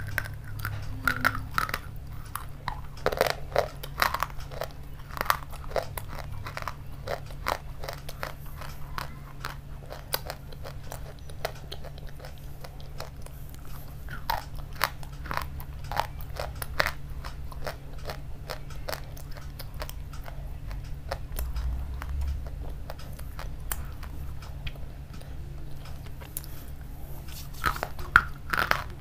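Close-miked chewing of a hard, crunchy food: many crisp, irregular crunches as it is bitten and chewed, over a steady low hum.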